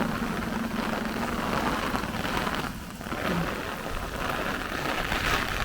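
Heavy downpour of rain with gusty wind buffeting, a steady wash that eases briefly about three seconds in.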